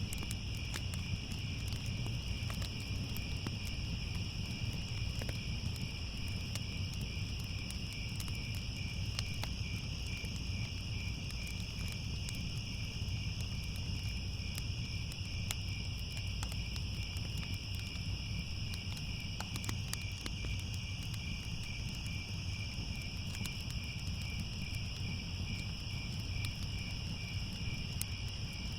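A chorus of crickets trilling steadily and without a break, high-pitched. Beneath it is a low rumble with scattered faint crackles.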